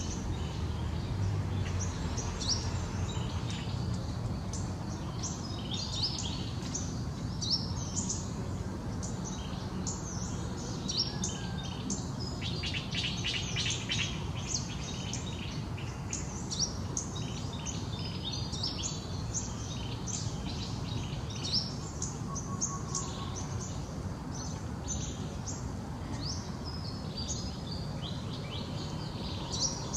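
Small birds chirping and twittering continually, with many short, quick high notes and a dense run of rapid chirps around the middle, over a steady low background rumble.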